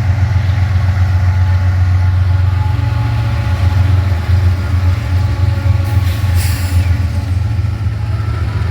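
Lead diesel locomotives of a freight train running as they pass, a loud steady low drone with engine tones above it, and a short hiss about six seconds in.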